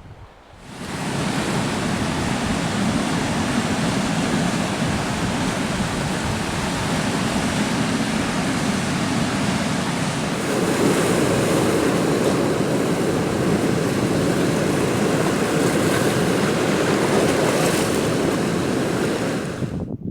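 Steady loud rush of sea surf and wind, with no separate wave breaks, starting and cutting off abruptly.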